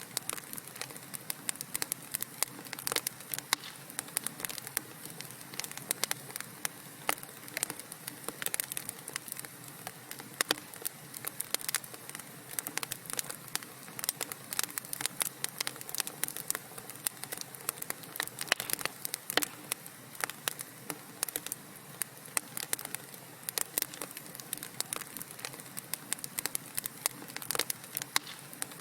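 Wood fire burning in a fireplace, crackling with a steady stream of sharp pops and snaps over a soft hiss.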